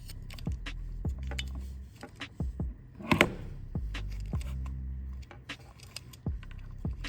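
Small clicks and rattles from handling wiring and connectors while an ESL emulator is hooked up, with a louder rustle about three seconds in. Under them is a low hum that switches on and off.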